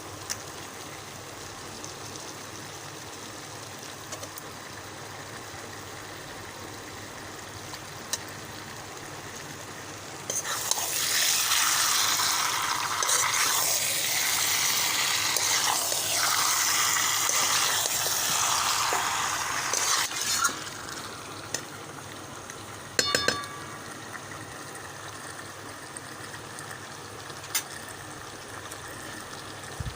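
Chicken frying in curry masala in a pan, a steady low sizzle. About ten seconds in the sizzling turns loud for about ten seconds, then settles back. A little later a few quick metal clinks of a spoon against the pan.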